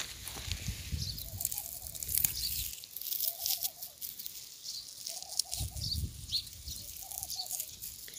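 Small birds chirping high and sparse. A short mid-pitched call comes four times, a second or two apart, over a low rumble on the microphone.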